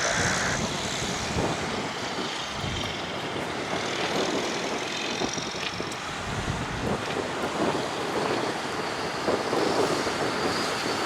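Airbus A380-800's jet engines running, a steady rumble with a faint high whine over it.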